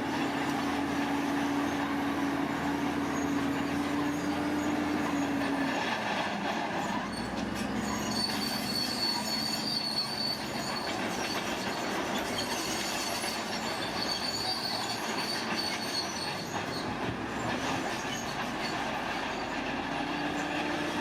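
Heavy earthmoving machinery working, its engine running with a steady hum for the first few seconds, then a continuous mechanical rumble with high-pitched metallic squeals twice in the middle.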